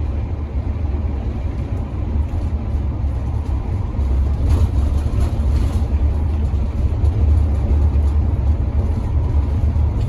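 Converted bus driving on the road, heard from inside the cabin: a steady low engine and road rumble that gets somewhat louder about four seconds in.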